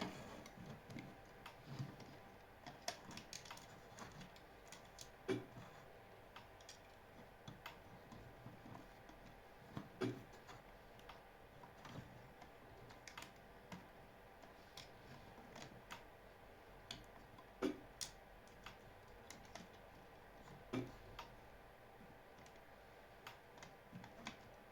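Quiet, scattered light clicks and taps, with a few louder knocks about 5, 10, 18 and 21 seconds in.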